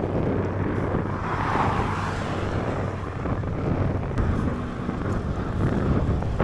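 Wind rushing over an action camera's microphone while cycling on a road, with a steady low road and traffic rumble and a brief louder swell about a second in.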